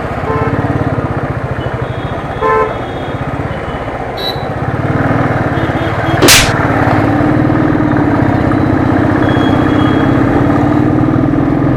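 Royal Enfield Thunderbird's single-cylinder engine thumping steadily while riding in traffic, with a few short horn toots in the first four seconds and one sharp loud click about six seconds in.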